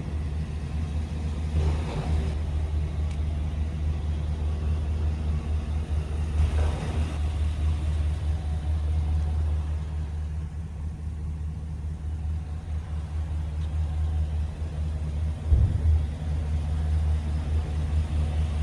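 Gasoline V8 engine of a GMC Sierra 2500HD pickup running steadily at low revs, with a short thump near the end.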